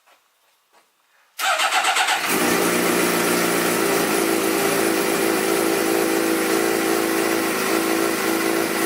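Suzuki GSX-R sportbike's inline-four engine turned over by the starter for under a second, catching about two seconds in and settling into a steady idle. It is running through its newly welded straight pipe with the factory exhaust refitted, and sounds a lot quieter than expected.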